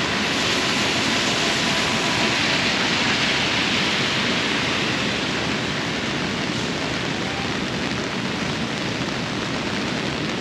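Heavy rain pouring down as a continuous hiss, easing a little about halfway through.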